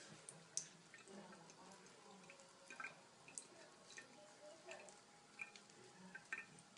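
Cat drinking water from under a tap: faint, irregular wet clicks and drips, a few each second.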